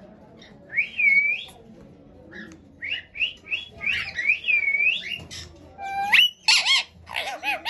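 Ringneck parrot giving a string of squawks and whistled chirps, high and gliding in pitch, with a sharp rising whistle about six seconds in.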